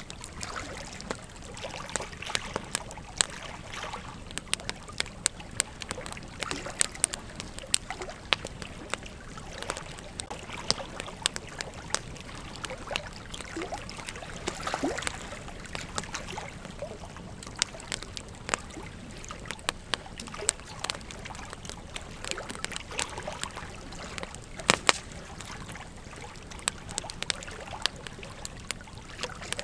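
Campfire crackling: irregular sharp pops and snaps over a steady hiss, with one louder pop about 25 seconds in.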